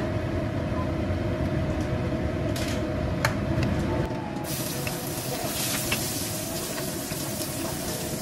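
A steady low rumble with a few light knocks, then about four and a half seconds in, minced garlic hits hot oil in a wok and starts sizzling steadily while it is stirred with a wooden spatula.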